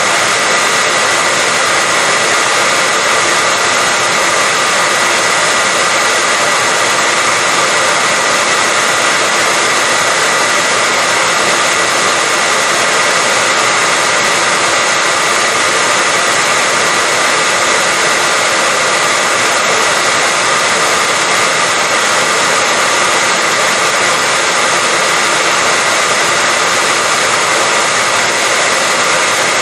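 Hair dryer running continuously at a steady pitch: an even rushing blow with a constant whine, played as white noise to lull a baby to sleep.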